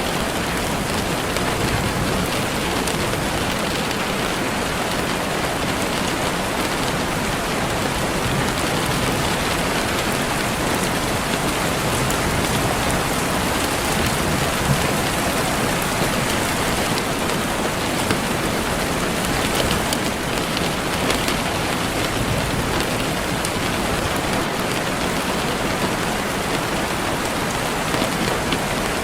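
Steady rain falling on a surface, an even hiss with occasional distinct drops.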